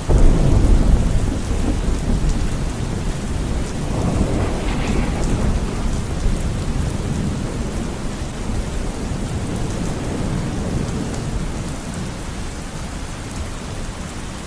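Rain falling steadily with thunder: a loud clap of thunder breaks right at the start and rolls away, a second rumble swells about four seconds in, and the thunder fades to a low rumble under the rain toward the end.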